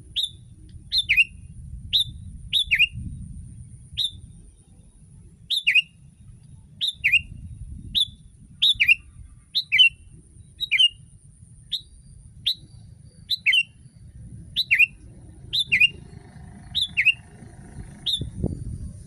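Sooty-headed bulbul (kutilang) calling: short, sharp chirps, mostly paired as a high note followed by a falling one, repeated about once a second. A faint steady high tone runs underneath, and there is a low thump near the end.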